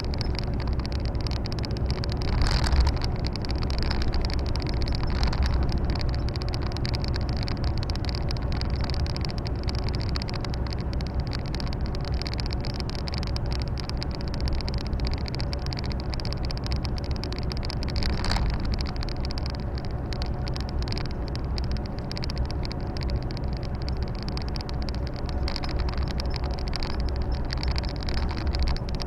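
Volvo FH 460 truck's 13-litre six-cylinder diesel droning steadily while driving, with constant tyre and road noise heard from inside the cab. Two brief knocks stand out, about three seconds in and again past the middle.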